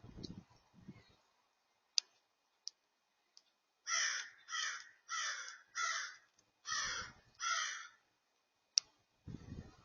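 A bird outdoors giving a series of six harsh, cawing calls, four in quick succession and then two more after a short pause. A few sharp ticks come before and after the calls.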